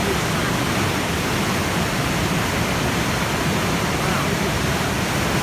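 River rapids: a steady, even rush of white water with no breaks.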